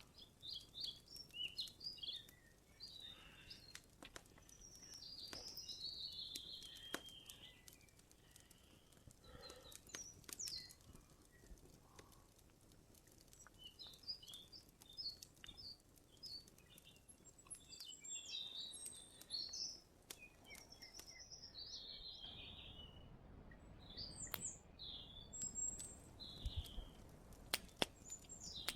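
Small birds chirping and singing in the forest, in many short call phrases throughout, with scattered sharp clicks in between.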